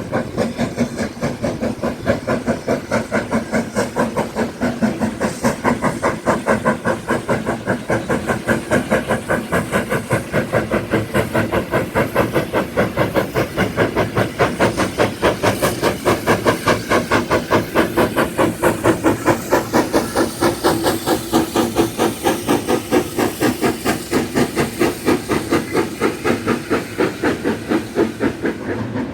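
Steam locomotive working, with a fast, even rhythm of exhaust chuffs and steady steam hiss.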